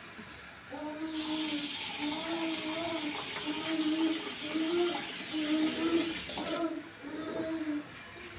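Water pouring into a pot of rice, starting about a second in and stopping abruptly after about five and a half seconds. A woman's voice carries a simple tune of short held notes over it.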